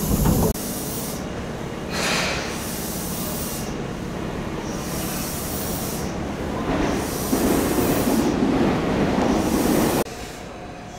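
Tobu 10030 series electric train with a steady hiss of compressed air. The level drops suddenly about half a second in and again near the end, with brief swells in between.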